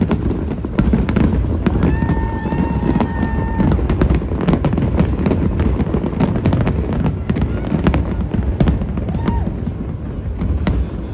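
Aerial fireworks display going off continuously: many sharp bangs and crackles over a deep rumble. About two seconds in, a steady whistle-like tone is held for about a second and a half.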